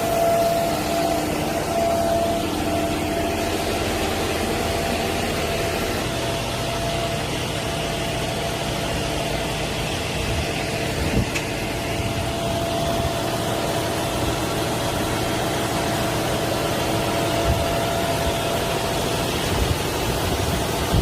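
Concrete pump truck's engine running steadily, with a steady whine held over the rumble and a few brief knocks.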